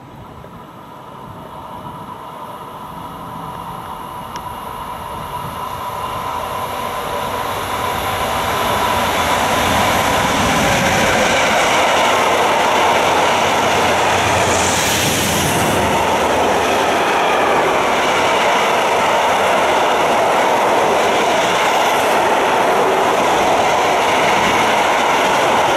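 Freight train hauled by an SBB Cargo class 482 electric locomotive: it grows steadily louder over the first nine seconds or so as it approaches. Then comes the steady running noise of the long line of tank wagons' wheels rolling past on the rails.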